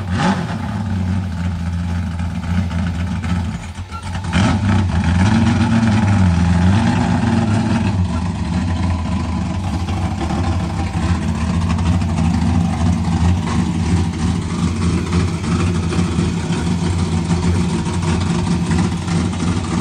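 1968 Ford Mustang fastback's engine running loud and steady, revved up and back down about five seconds in, as the car drives out of an enclosed trailer.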